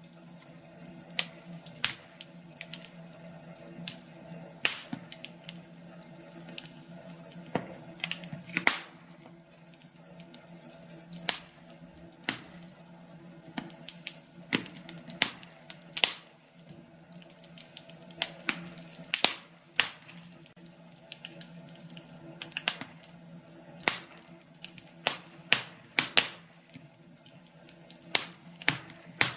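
Firewood burning in a fireplace, crackling with irregular sharp pops and snaps over a steady low hum.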